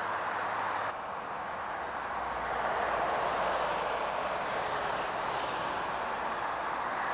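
Highway traffic noise: a heavy truck passing, with a steady rush of tyre and road noise that swells about two seconds in and a high hiss joining about four seconds in.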